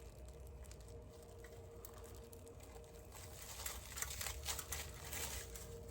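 Faint light clicks and taps from a carbon-fibre exhaust tip being handled, coming thicker in the second half, over a steady faint hum.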